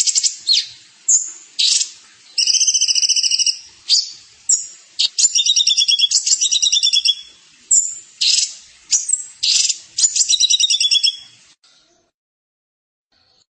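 A songbird singing high-pitched, rapidly trilled phrases with short pauses between them. The song stops near the end.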